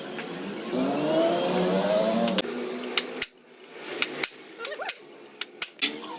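Workshop tool sounds: a rising whine that cuts off after about two seconds, then a run of sharp metallic taps and clicks.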